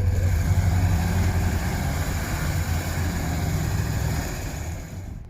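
Car engine running with a steady, deep low rumble, which slowly fades over the last couple of seconds.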